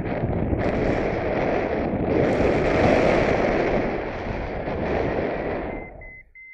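Strong wind buffeting the microphone in a heavy, uneven rush, which drops away suddenly near the end, leaving a brief faint high steady tone.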